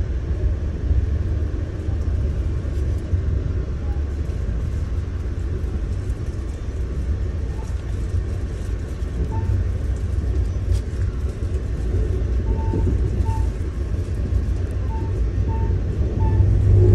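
Steady rumble and rushing of a moving passenger train heard from inside the coach: wheels running on the rails.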